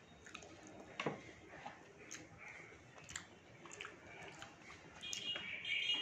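Close-up eating sounds: a person chewing a mouthful of rice and chicken eaten by hand, with scattered wet mouth clicks and smacks, the sharpest about a second in. Near the end comes a louder, higher-pitched sound.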